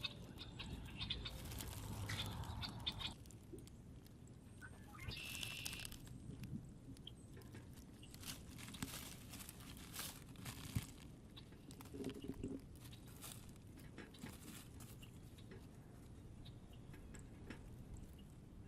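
Birds at a feeder: many small, scattered clicks and taps of feeding, with a brief chirp about five seconds in.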